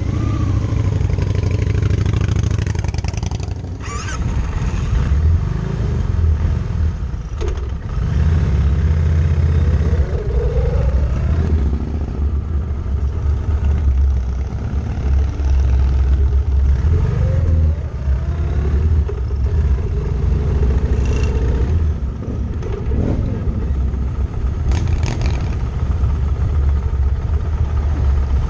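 Motorcycle engines running and accelerating, the engine note rising several times as the bikes pull away and change gear.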